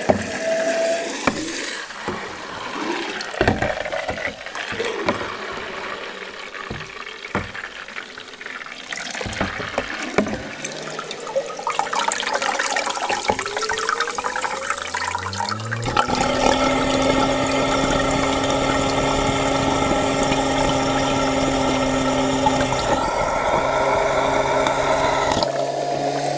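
Water sloshing and gurgling around a cordless vacuum cleaner, with clicks and splashes. About two-thirds of the way through, a whine rises and settles into a steady motor hum that runs on to the end.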